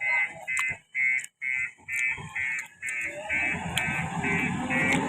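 Backhoe loader's reversing alarm beeping steadily, about two beeps a second, with the diesel engine's running noise rising under it from about halfway through.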